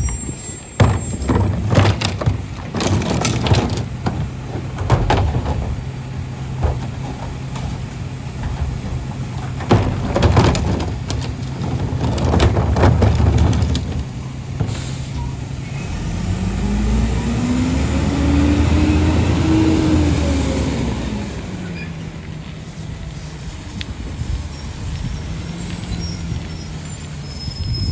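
Rear-loader garbage truck at a pickup. Its diesel engine idles under clusters of bangs and knocks as trash is loaded into the hopper. Past the middle, the engine revs up and back down over about six seconds as the hydraulic packer runs its cycle.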